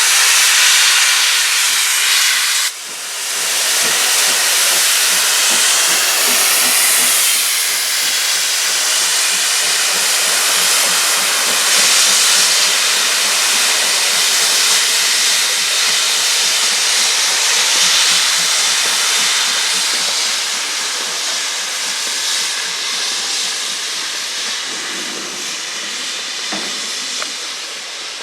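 Steam locomotive venting steam in a loud, steady hiss, with a brief drop about three seconds in and a gradual easing toward the end.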